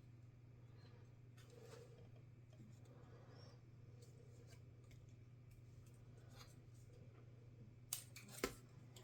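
Faint clicks and taps of small tools and plastic or metal laptop parts being handled during disassembly, with two sharper clicks about half a second apart near the end, over a low steady hum.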